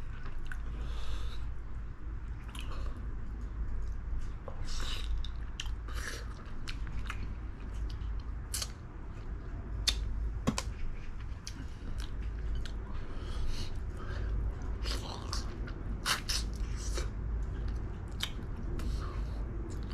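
A person chewing and eating spicy braised chicken, with short wet smacks and clicks coming irregularly throughout.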